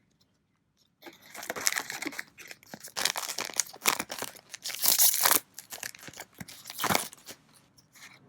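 A foil trading-card booster pack wrapper crinkling and tearing as it is handled and opened. The crackling starts about a second in and runs as a dense string of sharp rustles.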